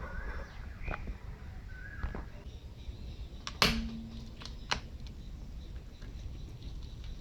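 Toy animals squeaking and cracking under a car's tyre over a low steady rumble: two short squeaks, then a sharp loud crack about three and a half seconds in, followed by a few clicks.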